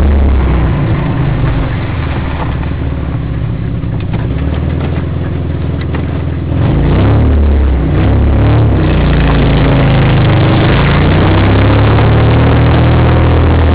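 Holden Jackaroo 4WD's engine running as it drives slowly along a dirt track, heard from inside the cab. The engine eases off early, then picks up again about six and a half seconds in, its pitch climbing and falling for a couple of seconds before settling into a steady pull.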